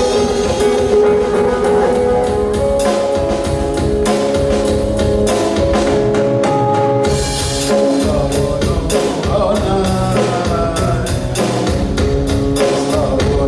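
Raga-based fusion band playing, drawn from rain ragas such as Malhar, with a drum kit keeping time under held melodic notes; a voice begins singing a bending, ornamented line about two-thirds of the way through.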